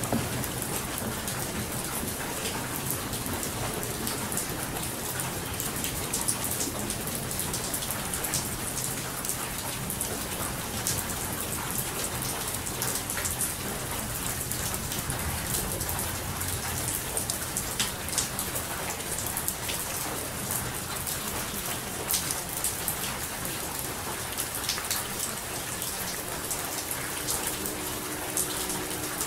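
Steady rain: an even hiss with many small drop ticks. It serves as the background track of a subliminal affirmation recording.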